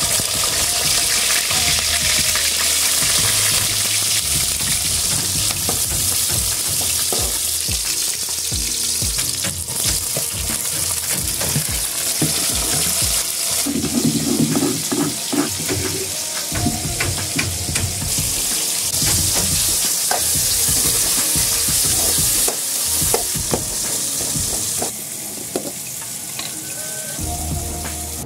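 Sliced onions sizzling as they fry in hot oil in an aluminium kadai, with a spoon scraping and clicking against the pan.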